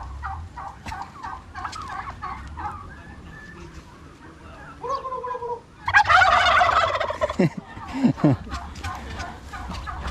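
Several domestic turkeys gobbling back and forth: rapid warbling gobbles at first, then the loudest burst of gobbling about six seconds in, followed by two short falling calls.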